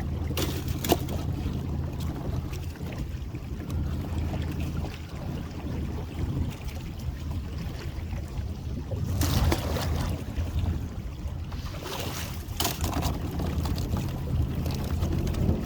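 Small boat's motor running steadily at low speed while a crab trotline is worked, with a few short splashing or knocking noises over it.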